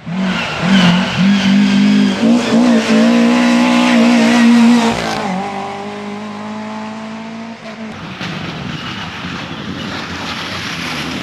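Racing car engine running hard at high revs, its pitch wavering with the throttle, then dropping lower and quieter after about five seconds as the car goes by and away.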